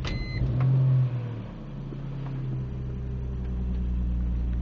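Cold start of a 2001 BMW M3's straight-six after a week of sitting, just after a short chime. The engine catches, flares up in revs for about a second, then drops back by a second and a half into a steady fast cold idle.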